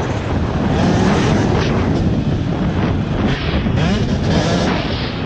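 Motocross dirt bike engine revving, the pitch rising and falling as the throttle is worked, with wind buffeting the microphone.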